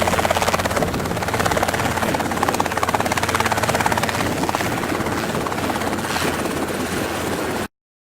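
Robinson R22 helicopter running steadily, its piston engine and rotor making a fast, even pulsing. The sound cuts off abruptly near the end.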